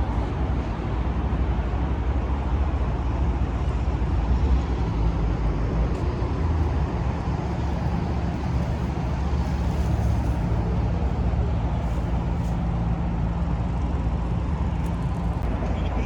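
Steady low rumble of idling car engines and passing vehicle traffic.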